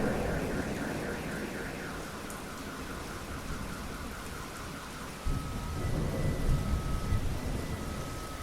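Steady rain with thunder: a thunderclap's rumble dying away at the start, then a new low rumble of thunder breaking in suddenly about five seconds in. A faint high tone repeats on and off through the second half.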